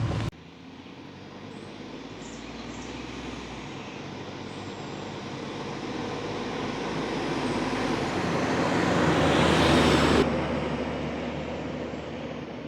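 A van driving along a road towards the listener, its engine and tyre noise growing steadily louder for about ten seconds. Then the sound drops suddenly and fades as the van drives away.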